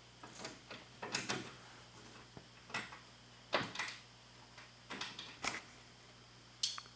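Irregular knocks, clicks and short scraping sounds with pauses between them, the loudest about three and a half seconds in.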